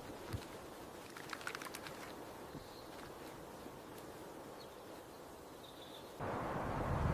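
Faint outdoor ambience with light clicks and a few brief, faint, high bird chirps. About six seconds in, a louder rushing noise, like wind, starts suddenly.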